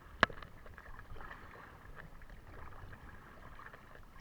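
Kayak paddling on open water: faint splashing and water noise, with one sharp knock from the paddle or hull just after the start.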